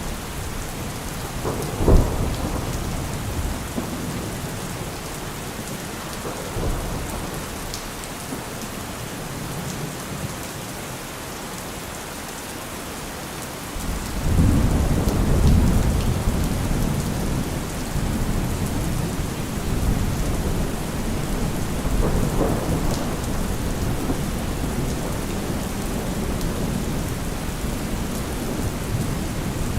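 Heavy rain falling steadily. A sharp low thump comes about two seconds in, and a deep low rumble swells in at about fourteen seconds and stays under the rain.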